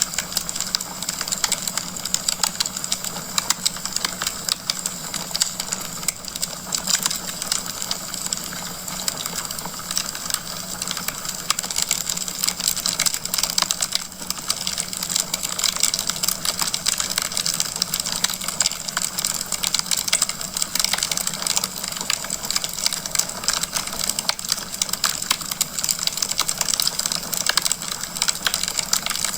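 Wood fire crackling steadily in a fireplace, a dense run of small sharp pops and snaps from the burning logs.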